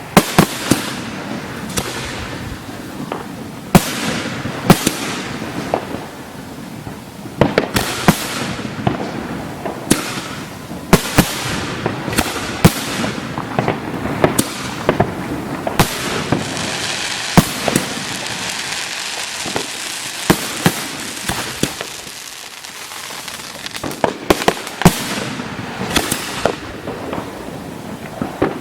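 Aerial fireworks display: a continuous run of shells bursting with sharp booms every second or so, between them the hiss and crackle of the bursts.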